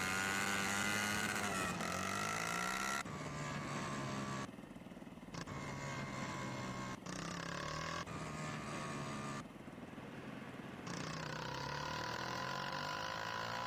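Honda CG 160 Titan's single-cylinder four-stroke engine running on the move, its pitch rising and falling with throttle and gear changes, over a hiss of wind and road noise. The sound drops and comes back abruptly several times.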